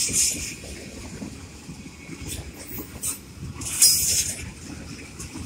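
Tank cars of a CSX freight train rolling past on the rails: a steady, uneven rumble of wheels on track, with a brief, louder, brighter burst of noise about four seconds in.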